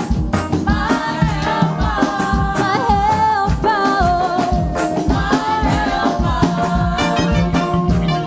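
Live gospel praise music: a band with a steady drum beat under a long, bending melody line.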